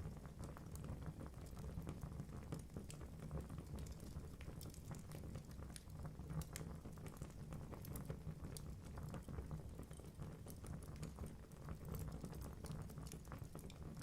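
Wood fire burning in a fireplace: a steady low rumble of flames with irregular small crackles and pops from the burning logs throughout.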